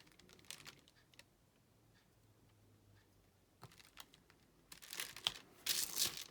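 Small plastic clicks and taps from diamond painting work, with resin drills and a drill pen on the tray and canvas. About five seconds in comes a louder burst of plastic crinkling and rustling.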